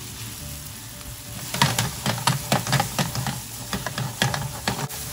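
Diced chicken and onion sizzling in a frying pan while a wooden spatula stirs them. From about a second and a half in, the spatula scrapes and knocks against the pan a few times a second.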